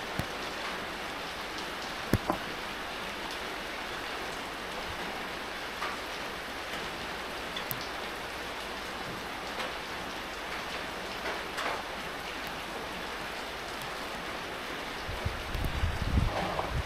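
Steady rain falling, a continuous hiss with scattered louder drop ticks. A low rumble comes in during the last couple of seconds.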